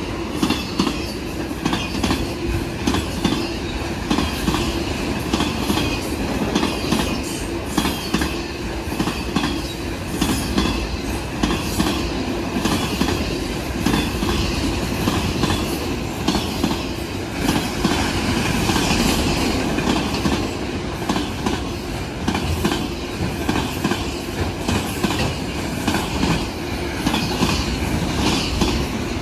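Union Pacific freight train of autorack cars passing at about 60 mph: steady loud rolling of steel wheels on rail, with repeated clacks of the wheels over the rail joints.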